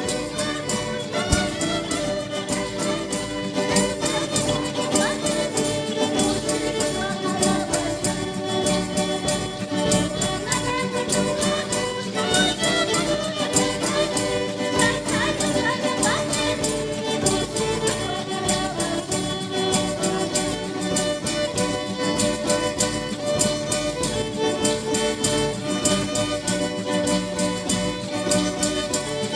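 A church band playing an instrumental passage led by violin over a steady beat.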